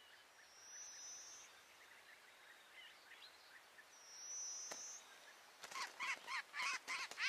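Small bird calling: two thin high whistles, then a quick run of loud squeaky chirps, about five a second, through the last second and a half. A single sharp tap comes just before the chirps.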